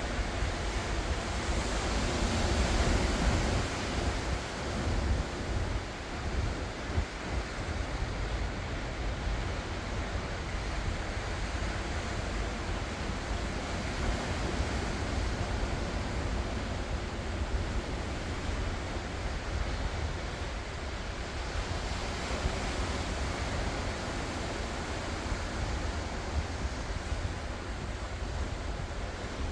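Ocean waves breaking and washing on the shore, with a swell that peaks about two to four seconds in, and wind rumbling on the microphone.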